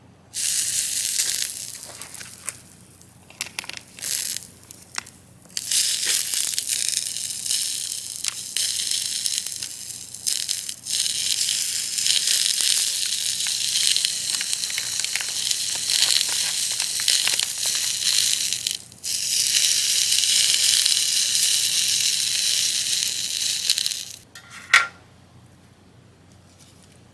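Food sizzling on a small hot iron griddle: a loud, steady hiss that breaks off a few times and stops near the end, with one sharp click just after.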